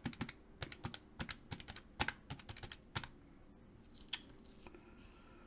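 Typing on a computer keyboard: an irregular run of quick keystrokes, thickest in the first three seconds, then a few scattered taps.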